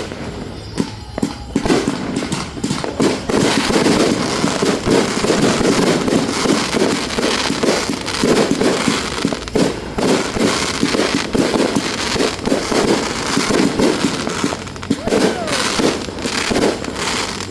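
A fireworks show in a rapid barrage: dozens of shells bursting and crackling in quick succession. It starts with scattered bangs and thickens into an almost continuous volley from about two seconds in until near the end.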